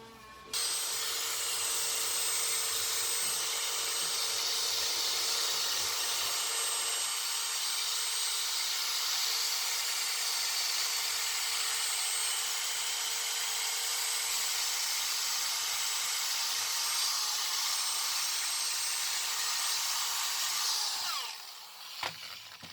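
Small high-speed power tool grinding metal steadily, boring out a moped carburettor to a larger size. It spins up about half a second in and winds down with a falling pitch near the end.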